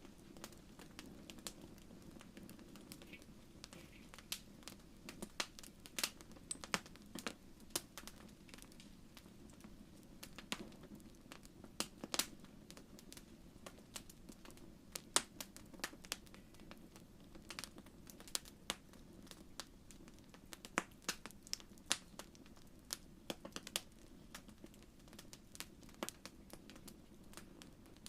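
Wood fire in a fireplace crackling, with irregular sharp pops and snaps, some louder than others, over a steady low rumble.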